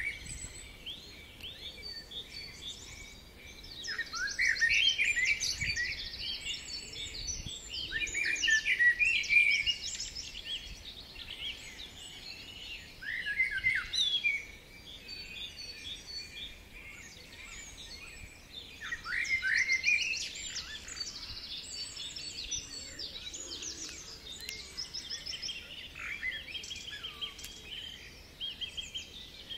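Several songbirds singing at once: quick chirps, short sweeping notes and fast trills overlapping, in louder spells every few seconds.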